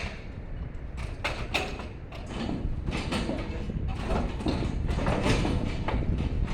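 Irregular clanks, knocks and scrapes of an air-conditioner unit being handled and lowered by hand, over a steady low rumble.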